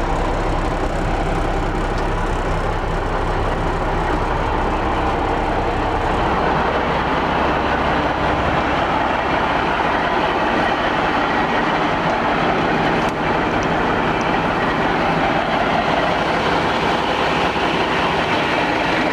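Diesel engine of a 1979 Ford L9000 tri-axle grain truck running steadily, with a dense mechanical rattle over it.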